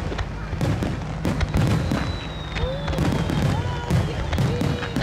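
Fireworks display: many sharp bangs and crackles of aerial shells bursting in quick succession, over the voices of a crowd.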